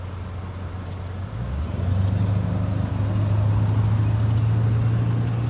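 Car engine running with a steady low hum, which grows louder about a second and a half in.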